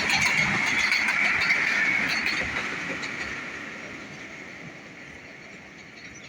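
Pakistan Railways Hazara Express running past on the track: steady rolling noise of wheels on rail with rapid clicking, loud for the first two seconds or so, then fading away as the train moves off.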